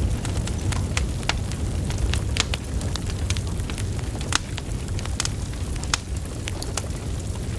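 Wood fire burning logs: a steady low rumble of flames with frequent sharp crackles and pops, a few louder snaps among them.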